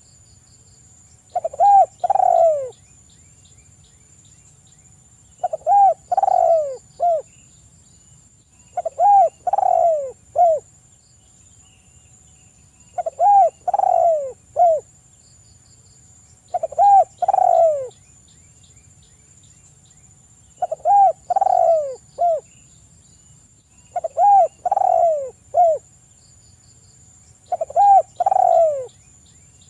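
Spotted dove (tekukur) cooing steadily: a phrase of three or four short falling coos, repeated about every three and a half to four seconds, eight times.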